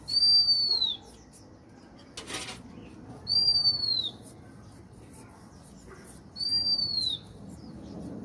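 A bird calling with a single high, drawn-out whistle that falls away at its end, repeated three times about three seconds apart. A short rushing noise comes about two seconds in.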